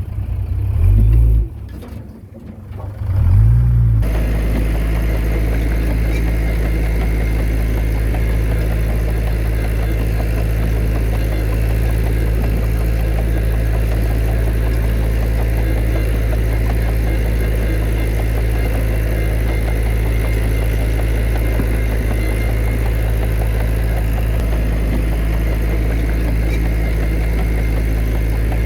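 Heavy diesel engine of earthmoving machinery. It surges twice in the first few seconds, then settles about four seconds in into a steady, deep, even drone.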